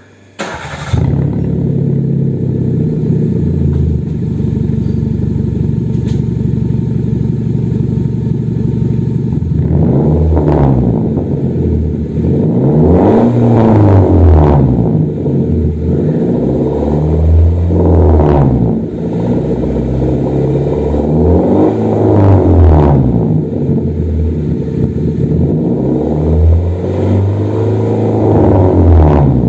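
Hyundai i10 engine through a hand-made aluminium custom exhaust with a deep bass note. It comes in abruptly about half a second in and idles steadily, then from about ten seconds in it is revved up and let fall back five or six times.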